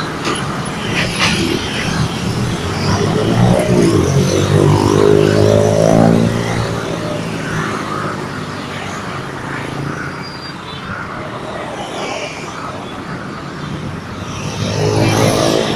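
A vehicle's engine passing by, its note building to a peak a few seconds in and then fading, over steady traffic-like noise; another engine swells up near the end.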